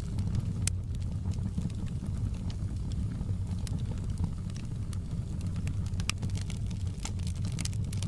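Wood fire crackling in a fireplace: scattered sharp snaps and pops, several close together near the end, over a steady low rumble of the flames.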